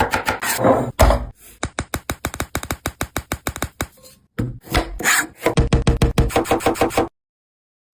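Rapid, rhythmic strokes of a blade on a wooden cutting board, about ten a second, in several runs with short breaks, stopping abruptly near the end.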